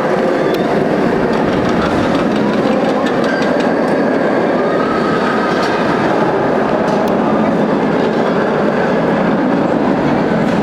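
Firebird floorless steel roller coaster train running along its track: steady noise of wheels on the rails, with faint squeals of the wheels.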